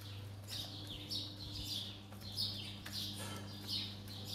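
Small birds chirping: runs of short, high, falling chirps throughout, over a steady low hum.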